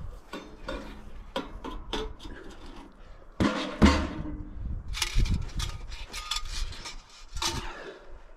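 Metal clanks, clinks and rattles of tent-stove pipe sections being handled and fitted together, with the loudest knocks about three and a half to four seconds in.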